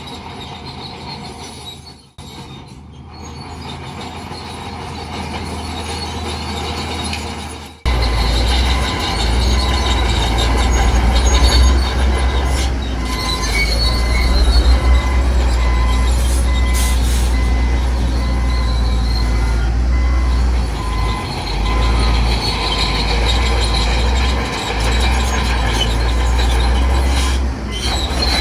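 Bulldozer working: diesel engine running with its steel tracks squealing. About eight seconds in, the sound jumps abruptly louder, with a deep rumble that then holds steady.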